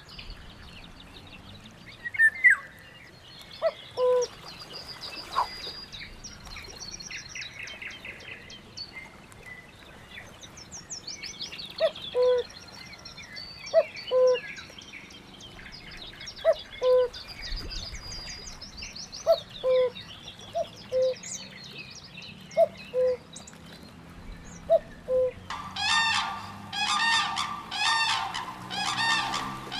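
Mixed wild birdsong: many small birds chirping and trilling, with short low notes repeating every second or two. About four seconds before the end, loud honking calls take over, repeated several times a second.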